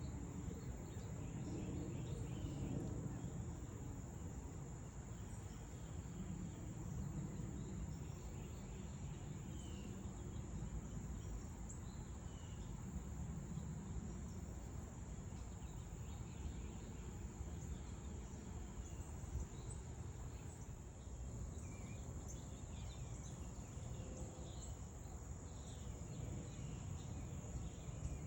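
Natural outdoor ambience: a steady high-pitched insect drone with scattered short bird chirps over a low background rumble.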